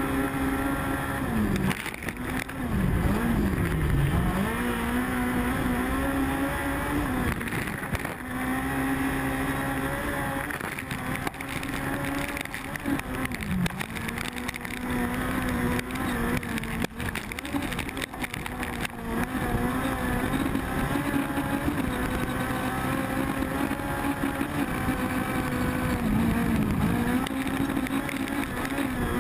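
VW Beetle autocross car's air-cooled flat-four engine, heard from inside the cockpit, running hard at high revs. Its pitch drops and climbs back up several times, with a few sharp knocks over the engine noise.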